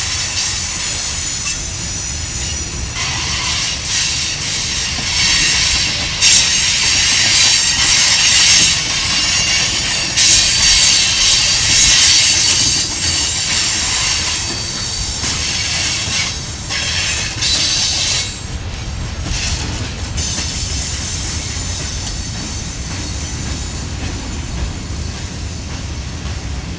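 Loaded freight cars (tank cars and covered hoppers) rolling past on a curve, with a steady rumble of wheels on rail. Over it comes high-pitched wheel squeal, strongest in the first half, which dies away about two-thirds of the way through.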